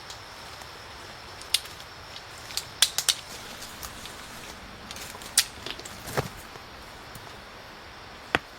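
Irregular sharp cracks, about eight in all, some in quick pairs, over a steady hiss.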